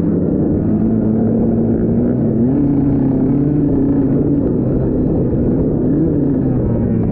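Dirt bike engine running under way, its revs rising and falling gently, over a steady low rumble.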